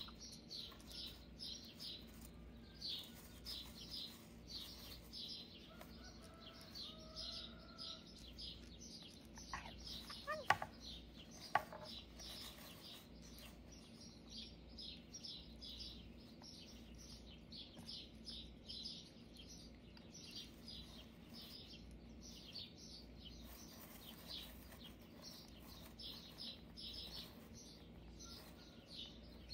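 Small bird chirping over and over, about two or three short high chirps a second, pausing now and then. A few sharp clicks come about ten and twelve seconds in.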